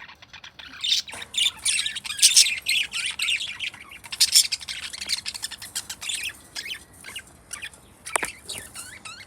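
Pet budgerigars chattering, a fast run of short, high chirps that comes in about a second in and keeps going.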